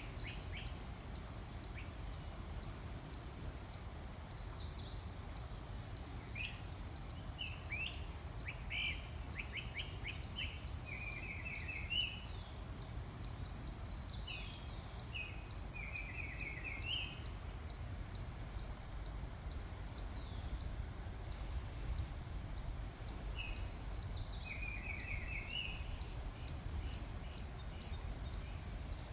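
Several songbirds singing: a high chirp repeated steadily a couple of times a second throughout, while another bird gives a short song phrase followed by a lower trill, recurring about every ten seconds. A steady low rumble lies underneath.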